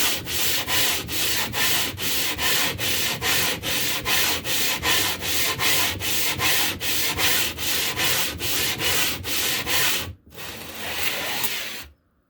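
A piece of limestone being rubbed back and forth against an abrasive surface to grind it flat for a sharpening stone, a gritty scraping in fast even strokes, about three a second. Near the end it breaks off briefly, makes one longer stroke, and stops.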